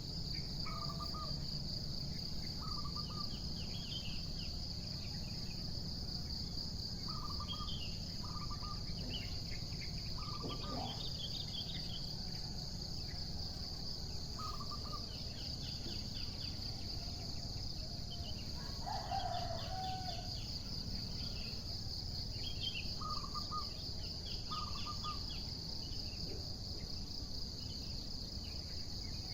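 A steady, high insect trill, like crickets, runs throughout. Birds call over it with short repeated notes and scattered chirps every second or two, above a low steady background rumble.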